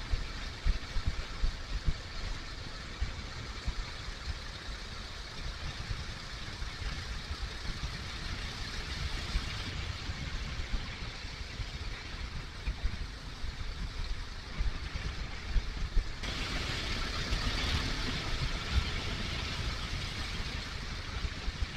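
Kawasaki KLR650's single-cylinder engine running on the move, with wind buffeting the microphone; the engine and wind noise grow louder about sixteen seconds in.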